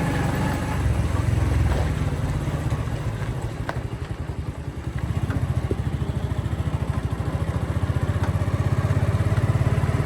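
Motorcycle engine running under way, a steady rapid pulsing; it eases off about four seconds in, then picks up again and grows louder towards the end.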